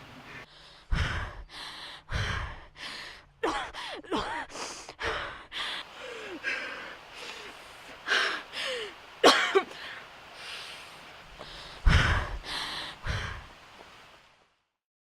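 A person breathing hard in uneven bursts, with sighs and gasps and a few short rising-and-falling voiced sounds, plus several dull thuds. It cuts off just before the end.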